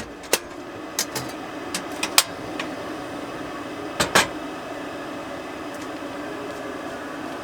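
A few sharp clicks and knocks, two of them close together about four seconds in, over a steady mechanical hum.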